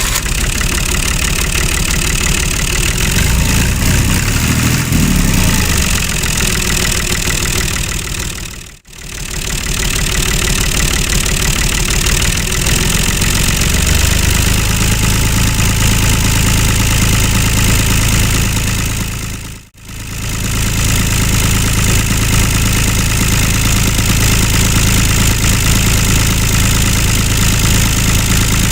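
A mini tractor's engine runs continuously. Its pitch wavers during the first several seconds, then settles into a steady low running note from about halfway through. The sound drops out briefly twice, near the 9- and 20-second marks.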